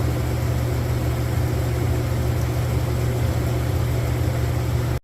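Pin-bore hone running steadily, a loud low hum under an even whirring noise, cutting off suddenly near the end.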